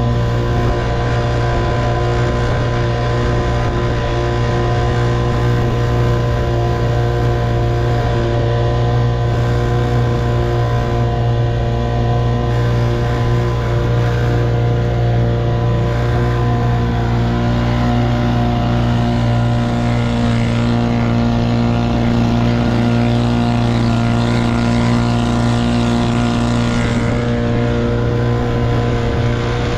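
1958 Evinrude 3 hp two-stroke outboard motor running steadily.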